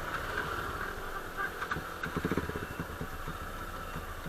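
Motorcycle engine idling, with an even, regular beat.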